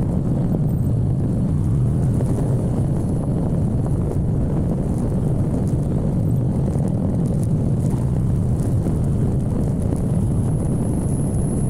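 Steady rumble of a motorcycle under way, with engine and wind noise on the microphone.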